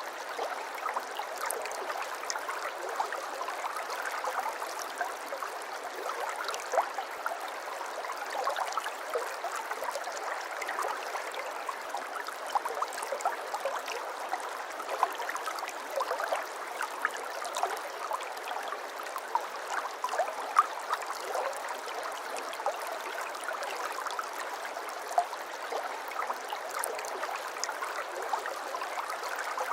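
Water flowing and babbling steadily, with many small splashes and trickles.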